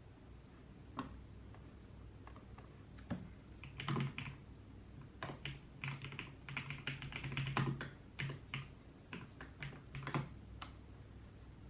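Typing on a computer keyboard: a few scattered keystrokes, then a busy run of quick keystrokes through the middle, thinning out again toward the end.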